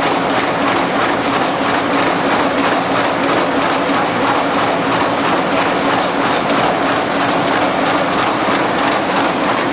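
Best Chen BC-200 automatic book thread sewing machine running, a steady, rapid mechanical clatter with a faint hum underneath.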